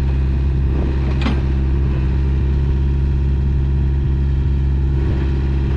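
Takeuchi TB150C midi excavator's diesel engine running steadily, with a couple of brief squeaks about a second in.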